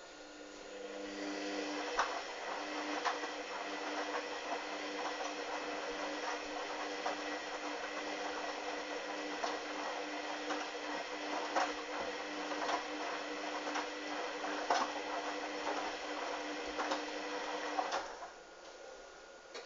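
Hoover Dynamic washing machine's drum motor turning the drum in the main wash, a steady hum with scattered knocks and clicks as the load tumbles. It starts about a second in and stops suddenly near the end, the pause between tumble turns.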